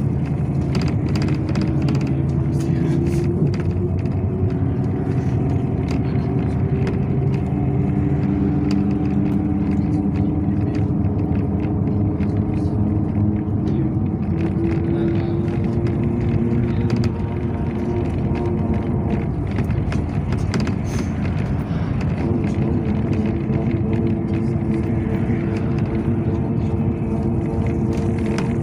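Yutong ZK6118HGA city bus heard from inside the cabin, its engine and drivetrain whine climbing steadily in pitch as the bus picks up speed. After about seventeen seconds the sound dips briefly, then settles onto a higher, steady note, like a gear change.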